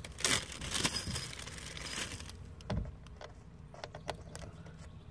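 Handling noise from test-fitting a metal roof vent hood: a brief scrape and rustle at the start, then scattered light clinks and clicks, with one duller knock about three seconds in.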